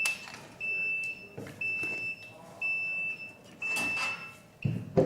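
Sublimation mug heat press timer beeping: a single high electronic beep about once a second, signalling that the pressing time is finished. A few clunks come near the end, with a sharp knock at the very end.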